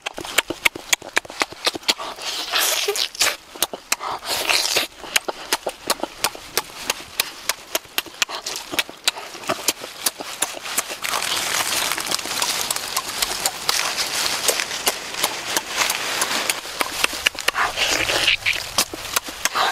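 Close-up wet chewing and lip-smacking of a person eating roasted turkey meat by hand: a rapid, uneven run of smacks and clicks, with soft tearing of the meat.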